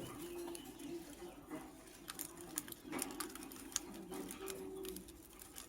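Pigeon cooing in low, drawn-out phrases that come and go, with many light clicks and taps of birds moving about the cage.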